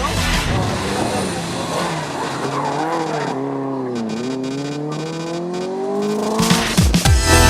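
Rally car engine under hard driving: the revs drop about four seconds in, then climb steadily again as it accelerates. Electronic dance music with a heavy beat comes in near the end.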